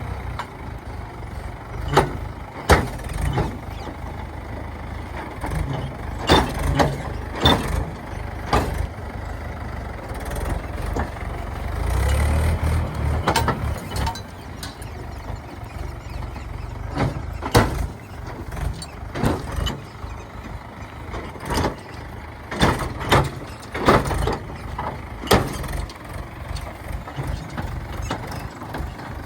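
Heavy diesel machinery running with a low rumble, the engine swelling briefly near the middle. Many sharp knocks and clanks come at irregular intervals over it.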